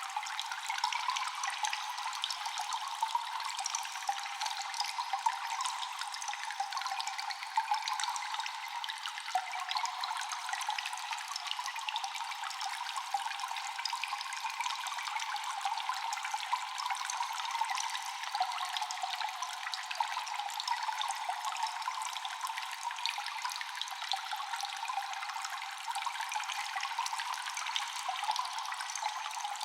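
Water dripping and trickling in a cave: many overlapping drops over a steady wash of running water, with nothing deep or low in it.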